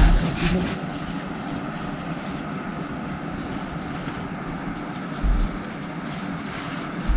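An insect, cricket-like, chirping in a steady, even pulse over a steady background hiss, with a few brief low thumps.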